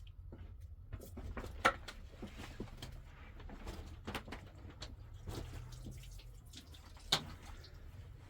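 Scattered light knocks and clinks of things being handled, over a low steady rumble, with two sharper clacks standing out, one just under two seconds in and one near the end.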